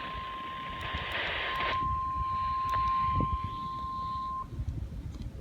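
NOAA Weather Radio warning alarm tone: a steady single tone near 1 kHz with static hiss from the radio's speaker, cutting off suddenly about four seconds in. It is the alert signal that comes before a tornado warning broadcast.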